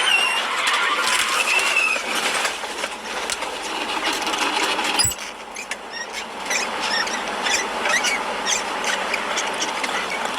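Vehicle noise with a short wavering squeal in the first two seconds, then a run of sharp clicks and knocks over the second half.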